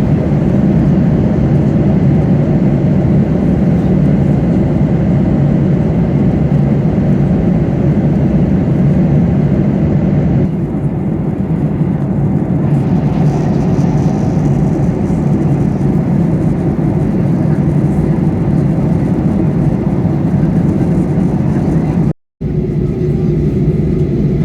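Steady cabin noise of a Boeing 737-800 airliner in flight, the low drone of its CFM56 turbofans and the airflow over the fuselage, broken by a brief cut to silence near the end.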